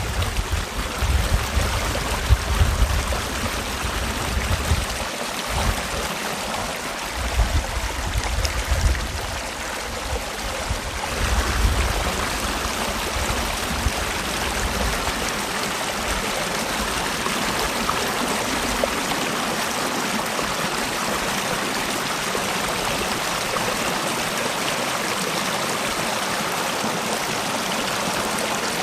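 Mountain valley stream rushing and gurgling steadily. Irregular low rumbling gusts sound under the water for about the first twelve seconds, then die away.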